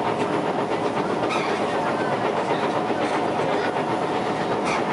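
Interior of an SMRT C151 metro train running at speed: a steady rumble of wheels on the rails with a faint steady hum, and a few faint clicks spaced well apart.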